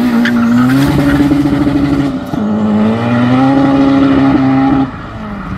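A boosted (forced-induction) Honda Integra Type R DC5 four-cylinder accelerating hard past. The engine note dips once about two seconds in, climbs again, and falls away sharply near the end.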